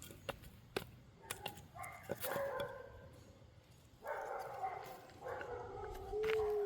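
A dog whining in drawn-out, pitched tones: a short stretch about two seconds in and a longer one from about four seconds on, ending in a falling note. A few sharp clicks come in the first second.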